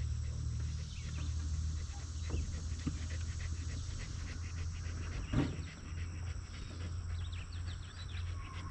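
A dog panting, with one short louder sound about five seconds in.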